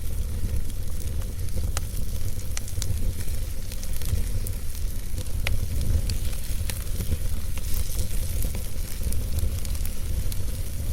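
Wood fire burning in a fireplace: a steady low rumble of flames under a hiss, with scattered sharp crackles and pops of burning logs at irregular intervals.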